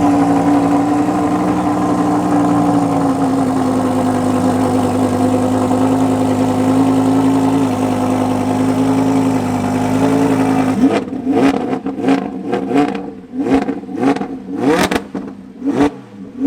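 A car engine held at steady high revs for about ten seconds, then a string of sharp throttle blips, seven or eight quick rises and falls in pitch.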